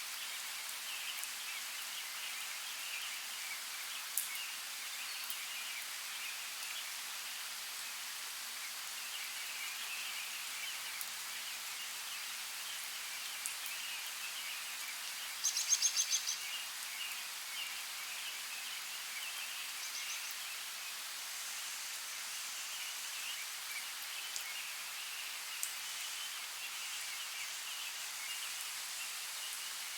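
Natural outdoor ambience: a steady hiss under continuous high, twittering chirps, with a bird's short, rapid trill about halfway through.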